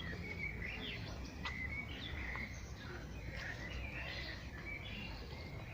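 Small birds chirping and twittering, many short rising and falling calls overlapping, over a steady low background rumble.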